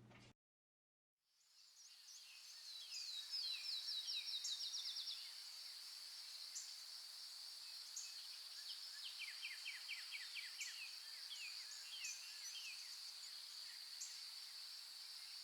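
After a second of silence, outdoor ambience fades in: a steady high insect drone with birds chirping over it. There is a quick run of rapid chirps a few seconds in, then more scattered chirps and short trills.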